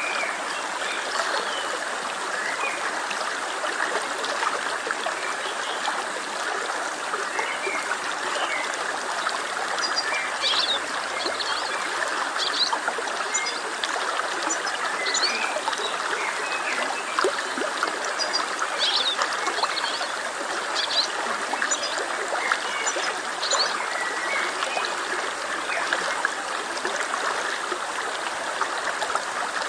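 A stream flowing and trickling steadily, with short, high bird chirps over it.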